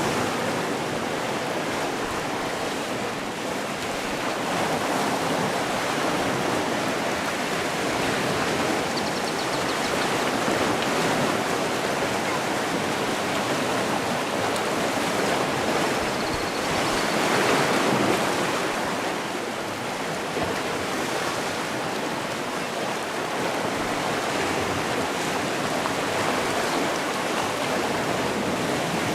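Sea surf: a steady wash of waves on the shore, swelling a little louder just past the middle.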